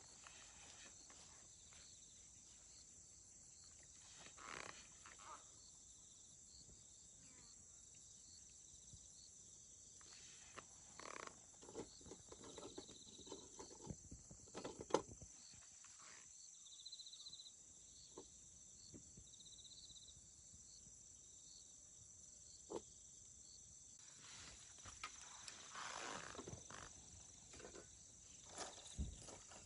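Faint crackling of a small twig fire in a compact wood stove: scattered soft pops and clicks, one sharper pop about halfway through and a few more near the end, over a steady high hiss.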